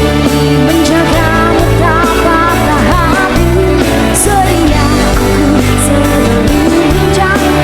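A band playing a pop-rock song live: sustained bass notes and drums with cymbal hits under a melody line that bends in pitch.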